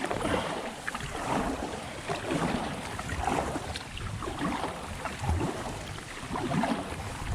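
Irregular rushing noise of wind and water around a kayak on the lake, swelling and easing unevenly.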